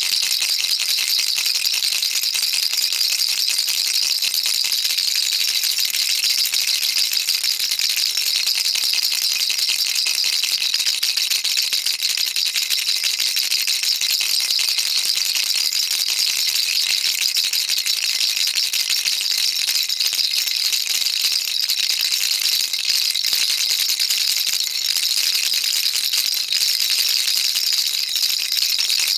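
Baby rattle shaken continuously, a dense, even stream of small beads clicking inside the rattle with no pauses and a bright, hissy tone.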